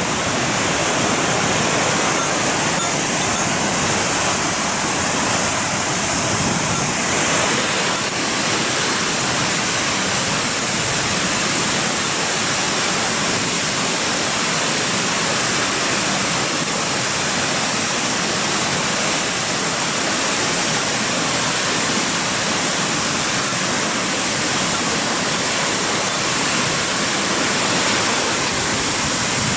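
Onogawa Fudo Falls, a waterfall, rushing in a steady, unbroken roar of falling water.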